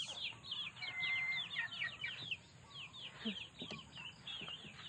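Chickens peeping: a steady stream of quick, high, falling chirps, fainter in the second half.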